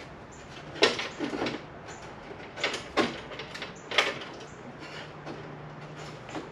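Irregular clunks and scrapes of car body parts being worked loose and handled by hand, with about five sharp knocks a second or more apart and a faint steady hum in the latter half.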